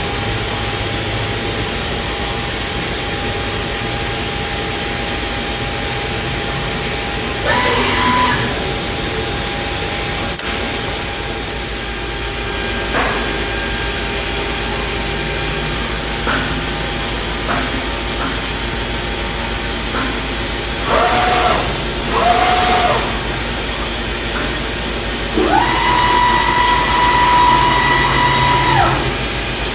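Morbidelli CNC router running: a steady machine hum and hiss, with a short whine about eight seconds in, two brief whines about two-thirds of the way through, and a longer steady whine of about three seconds near the end.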